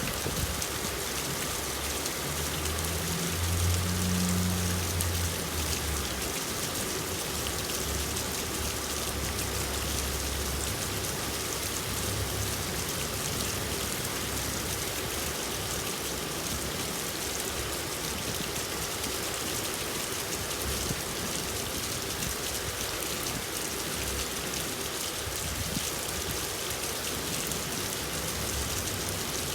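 Steady rain falling, an even hiss of drops, with a brief low rumble about four seconds in.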